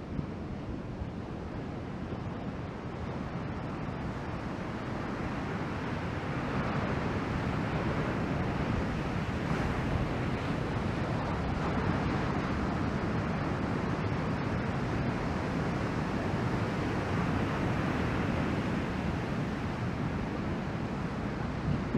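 Ocean surf from a typhoon swell, a steady rush of breaking waves mixed with wind buffeting the microphone, growing a little louder about six seconds in.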